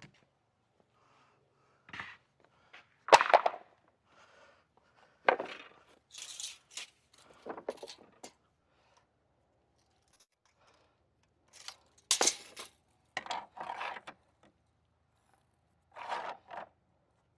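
Scattered brief scrapes and knocks from hands-on work, about eight separate ones with quiet gaps between.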